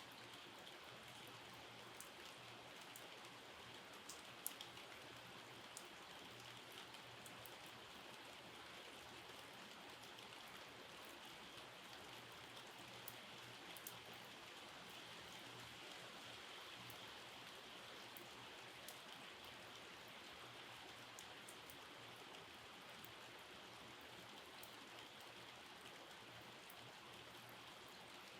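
Faint steady rain, with scattered sharp drips ticking through it; the loudest drip comes about four and a half seconds in. A faint low hum runs underneath.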